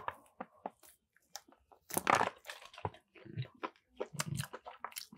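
Chewing and mouth sounds as a man eats a piece of chicken coated in jollof rice: irregular wet clicks and smacks, with one louder bite about two seconds in. He later says the chicken is tough and hard to eat.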